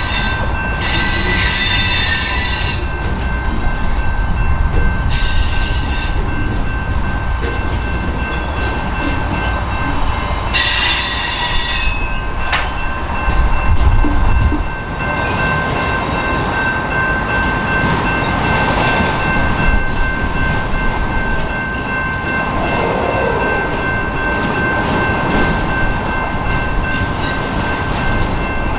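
Freight train cars rolling past, covered hoppers and then autoracks, with a steady low rumble and a constant high-pitched wheel squeal. The squeal rises into louder shrieks three times in the first half.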